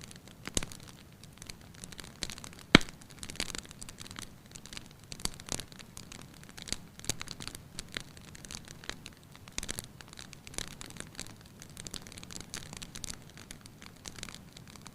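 Wood fire crackling in a fireplace: irregular snaps and pops, with one sharp, loud pop about three seconds in.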